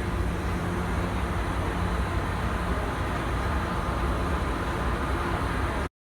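Steady low rumble of a locomotive engine running, with a steady low hum over it; the sound cuts off abruptly near the end.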